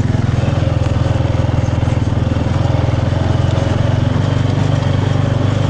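Motorbike engine running steadily while riding, a constant low engine note with rapid, even firing pulses.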